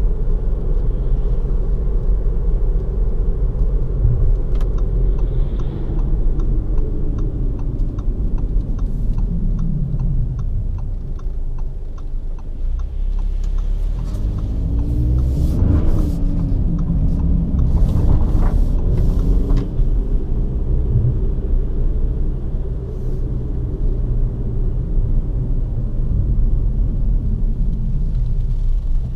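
Audi Q2 2.0 TDI's four-cylinder diesel engine and road rumble heard inside the cabin. The revs fall away, then climb twice in quick succession under acceleration in the middle before settling to a steady cruise.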